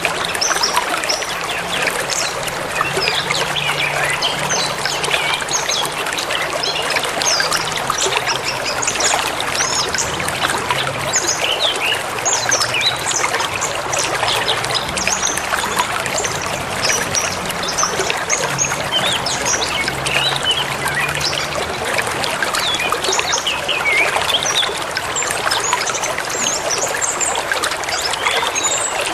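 A forest river or stream flowing and splashing steadily, with many small birds chirping and singing over it.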